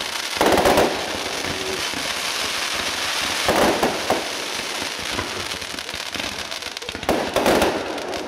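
Fireworks display with a dense run of crackles and pops throughout, from fans of comets and gold and green aerial bursts. Louder bursts come about half a second in, around three and a half seconds, and about seven seconds in.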